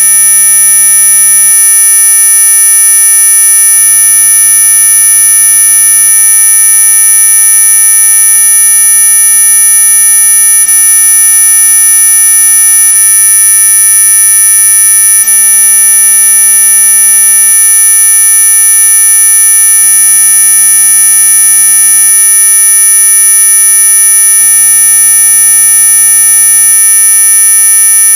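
Electronically generated 'anti-mosquito' tone: a loud, steady, high-pitched whine made of several pure tones sounding together, the strongest very high, holding without change.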